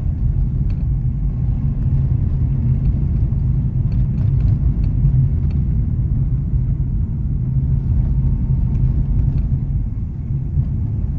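Nissan Magnite driving along, its engine and road noise a steady low rumble.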